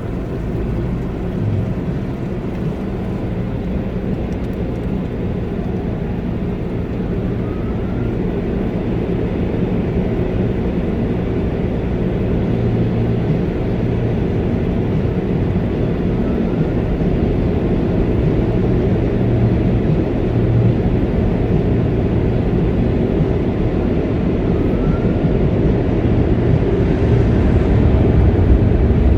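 Automatic car wash machinery heard from inside the car: a steady low rumble that slowly grows louder.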